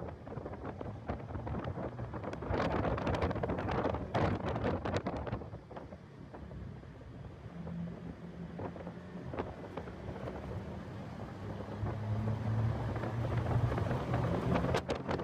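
Heavy wind buffeting on the microphone of a car being driven hard on a race track. An engine note comes through in the second half and grows louder near the end.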